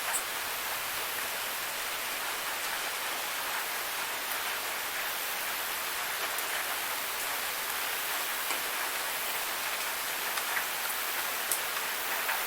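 Steady rushing hiss of a forest waterfall, water falling and splashing without pause, with a few faint brief ticks over it.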